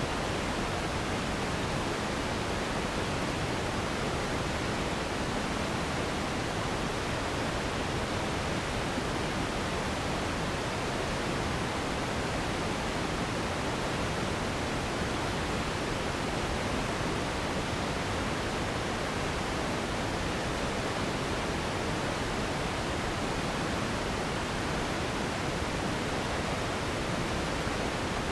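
Steady, unchanging pink-type noise: an even hiss with a soft, full low end, a continuous relaxation and sleep noise.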